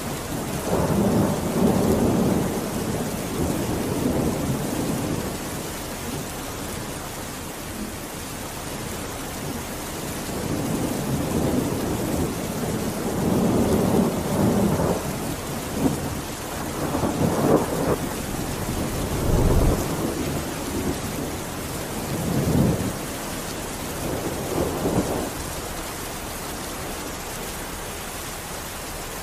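Steady heavy rain, with several low rolls of thunder swelling and fading in turn.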